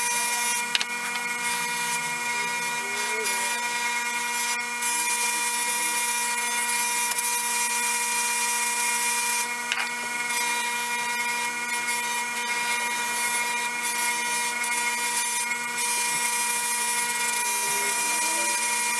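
Electric bench motor running steadily with a constant hum, with the hiss of a spinning wheel working steel chisels, and two short clicks.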